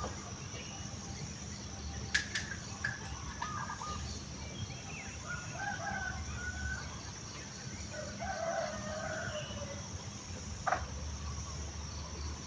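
Village chickens clucking and a rooster crowing, mixed with scattered bird calls, over a steady high insect drone. A couple of sharp clicks stand out, one about two seconds in and one near the end.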